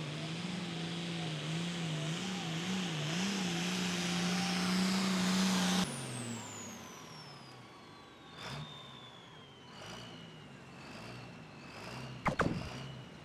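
Super Pro Farm pulling tractor's 540-cubic-inch single-turbo diesel running hard under the pull, its note wavering, then dropping off suddenly about six seconds in. A long falling turbo whine follows as the engine settles to a low, uneven idle, with a sharp knock near the end.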